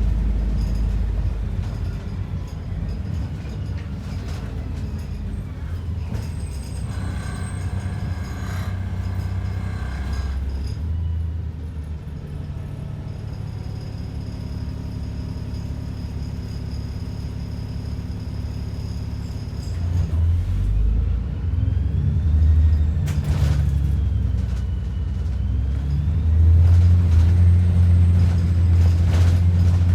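ADL Enviro 400 double-decker bus heard from inside, its diesel engine rumbling low while the bus runs. The engine gets louder about two-thirds of the way through and again near the end, with a short knock or rattle in between.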